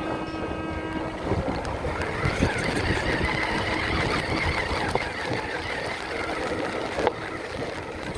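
Small motor of a radio-controlled truck running with a whine that wavers in pitch as the throttle changes, over noise of the surroundings, with a sharp knock near the end.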